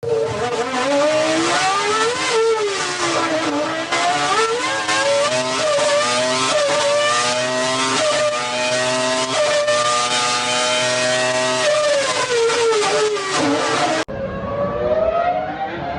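Formula 1 racing engine at high revs, its pitch rising and falling over and over as it accelerates and changes gear, then dropping in steps as it slows. A little before the end it cuts suddenly to another F1 engine recording, climbing in pitch.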